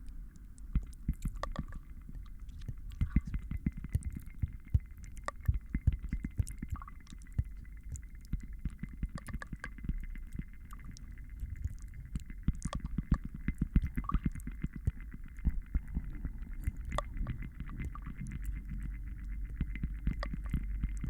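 Layered ASMR trigger sounds: a dense, irregular stream of soft clicks and taps over a steady low rumble.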